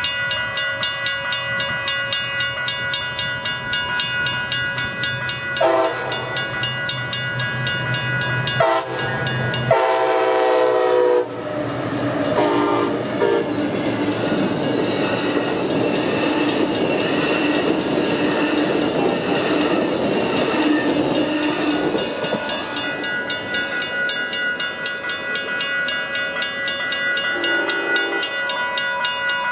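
Railroad grade-crossing bell dinging rapidly and steadily, while an Amtrak passenger train led by Siemens ALC-42 Charger locomotives sounds its horn in two long blasts starting about six seconds in. The train then rolls through the crossing with wheel and rail noise for about ten seconds before passing clear.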